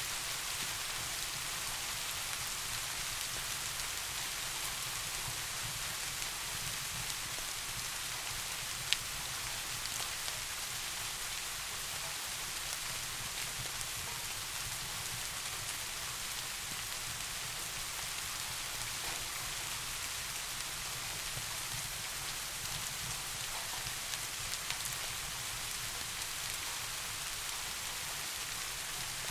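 Steady, even rain falling, with an occasional sharp tick; one click stands out about nine seconds in.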